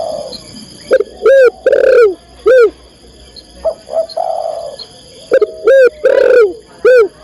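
Spotted dove (tekukur) cooing loudly in two three-note phrases, each a short coo, a longer drawn coo and a short closing coo, with softer coos before and between them.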